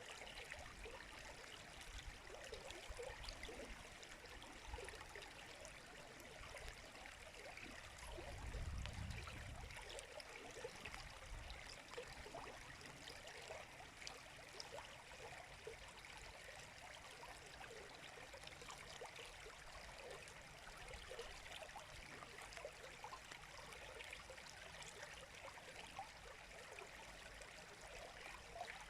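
River water flowing, a steady, quiet rush of running water. A brief low rumble comes in about eight seconds in.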